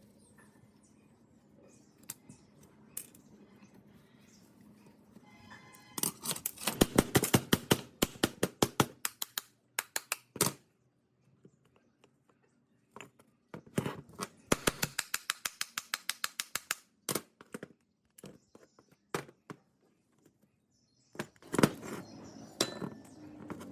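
Hand tool clicking rapidly in two runs of a few seconds each, with scattered single knocks and handling noise between.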